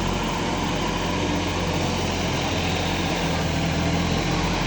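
Sonalika DI 50 Rx tractor's diesel engine running steadily, a low, even drone with no change in speed.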